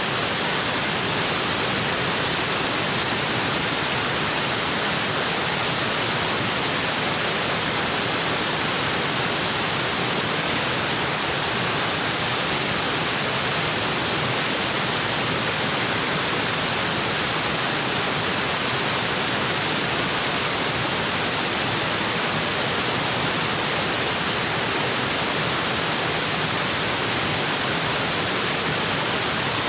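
Waterfall crashing onto rocks, a steady, even rush of falling water with no changes.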